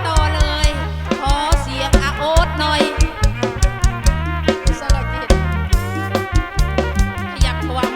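Live kantruem band music through a PA: a wavering lead melody over sustained bass notes and a steady, regular drum beat.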